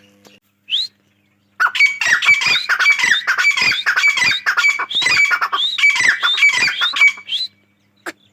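Grey francolin calling: one short rising note, then a loud, rapid run of repeated shrill, rising notes lasting about six seconds.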